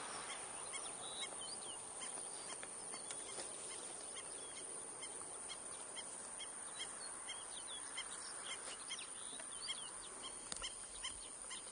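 Birds chirping and calling in many short, high notes, some sliding in pitch, over a steady outdoor hiss.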